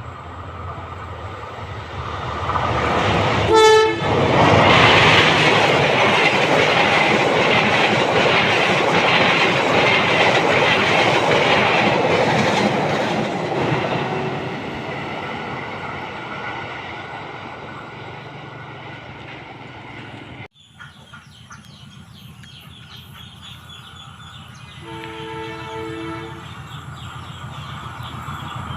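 A train passing at speed: a short horn blast about three and a half seconds in, then loud rumble and rhythmic wheel clatter over the rail joints that fades away over several seconds. Later, another short horn blast sounds more faintly about 25 seconds in as the rumble of an approaching train builds again.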